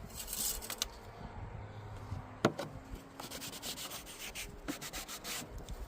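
Engine oil dipstick rubbing and scraping as it slides into its metal tube, with a sharp click about two and a half seconds in, followed by a run of short scrapes.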